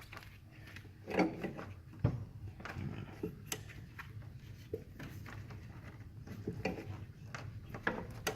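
An alternator being worked down into a 1989 Honda Civic's engine bay from above: irregular metal knocks, clunks and scrapes as it is wiggled into place, the loudest clunks about a second and two seconds in.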